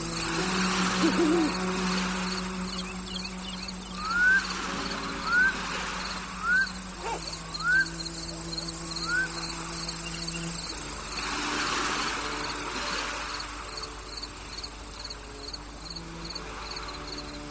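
Crickets chirring steadily, with a faster pulsing insect chirp above them, over soft held music chords. About four seconds in, five short rising whistled calls come roughly a second apart.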